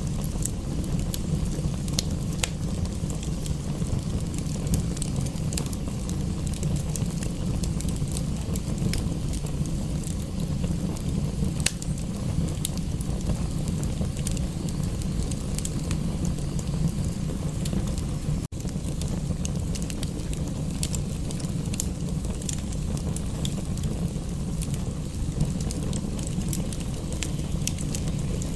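Wood fire crackling in a fireplace, with scattered sharp pops over a steady low rumble. The sound drops out for an instant about two-thirds of the way through.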